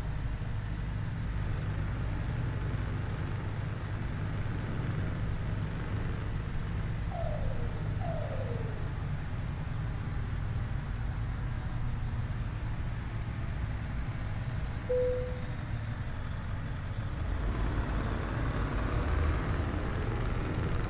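Scania R730's 16.4-litre V8 diesel running steadily as the truck drives, with two short falling squeaks about seven seconds in and a brief steady tone a little later. The sound grows louder and fuller near the end.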